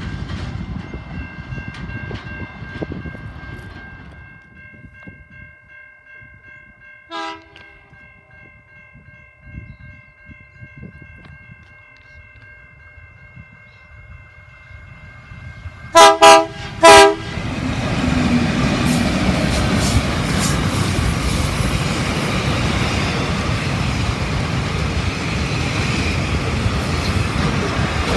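Freight train hauled by diesel-electric locomotives approaching and passing. A steady high ringing sounds as it nears, a short horn toot comes about seven seconds in, and three short, very loud horn blasts come around sixteen seconds. After that the locomotives' engines and the rumble and clatter of the container wagons rolling past take over.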